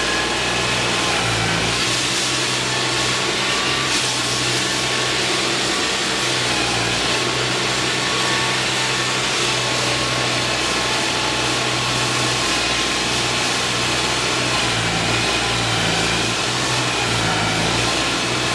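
Loud, steady engine-like mechanical noise with a hiss and no breaks.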